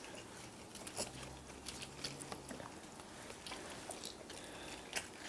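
Close-up eating sounds: people chewing mouthfuls of spicy noodles and dumplings, with scattered small wet mouth clicks.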